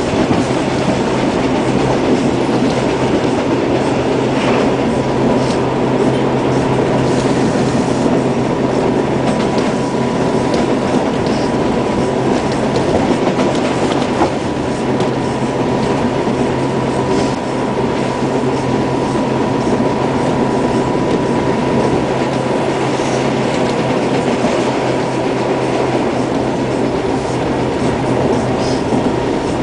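Interior ride noise of a Hawker Siddeley H4 subway car running steadily between stations: a continuous rumble with wheel clatter on the rails, a low hum and a thin steady high whine.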